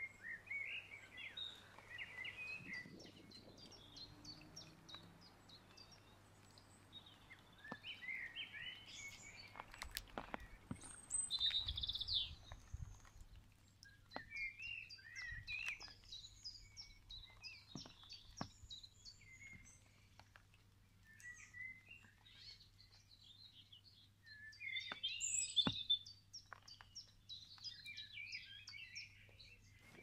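Several songbirds singing in short chirping, trilling phrases that come and go in bursts, with a few faint clicks.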